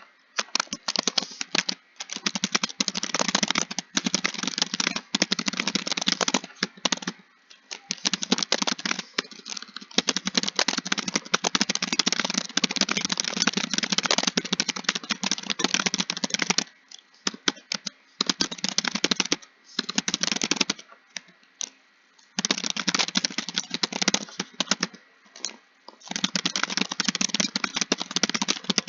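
Fast typing on a computer keyboard: keys clicking in quick continuous runs, broken now and then by pauses of about a second.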